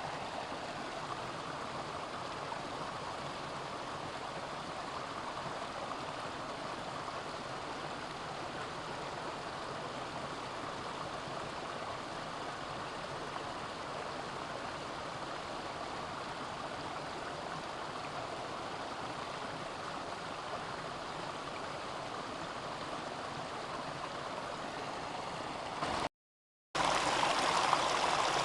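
Mountain stream rushing steadily over rocks. About 26 seconds in, the sound cuts out completely for half a second, then returns louder.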